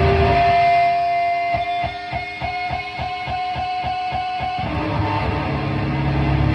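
Electric guitar played through a Dirge Slowly Melting noise pedal into a Barton High Voltage Custom 200 amp and an Ampeg V2 cab. Held, droning notes break about a second and a half in into a fast, even stutter of about four or five pulses a second, which stops near the three-quarter mark before held tones resume.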